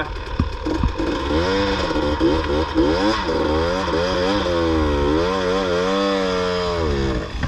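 Dirt bike engine revving up and down over and over, its pitch rising and falling as the throttle is worked on a steep hill climb, then dropping away near the end.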